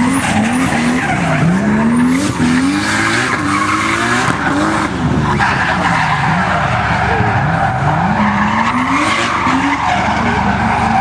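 Drifting car's engine revving hard, its pitch climbing and dropping again about once a second, over a continuous screech of tyres sliding.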